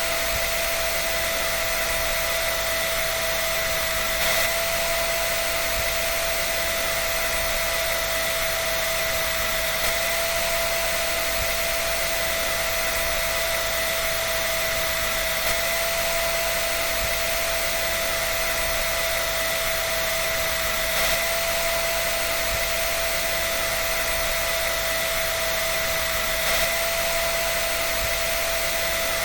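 An electric dryer running steadily: an even rushing hiss with a constant high-pitched whine over it, unchanging throughout.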